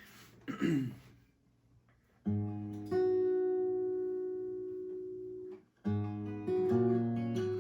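A brief sound from the voice about half a second in, then an acoustic guitar strums a chord that rings out and slowly fades for a few seconds, followed by more strummed chords opening the next song.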